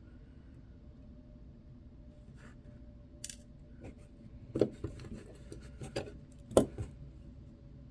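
Small metal clicks and taps of watch tools and parts as a watch movement is taken apart, with two sharper clicks, one about halfway through and one near the end, over a faint steady hum.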